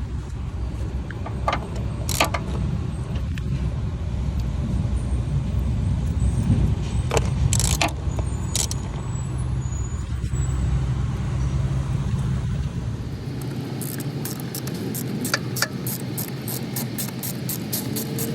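Nissan VQ35DE V6 running at idle with a misfire on cylinder 3, traced to a burnt spark plug; the low engine sound drops away about 13 seconds in. Scattered sharp clicks and knocks of the engine-bay parts being handled, then a fast run of clicks near the end.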